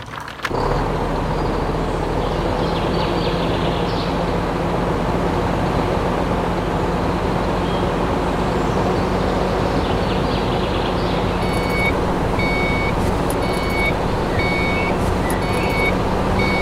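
A steady engine-like running hum. About twelve seconds in it is joined by a series of short, evenly spaced high beeps, roughly one every two-thirds of a second, like a reversing alarm.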